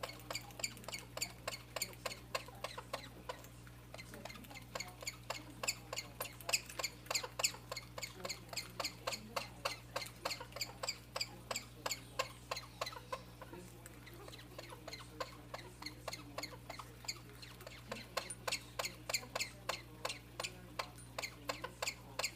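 A pet animal making a long run of short, high chirping squeaks, about two or three a second in a steady rhythm, thinning briefly about two-thirds of the way through.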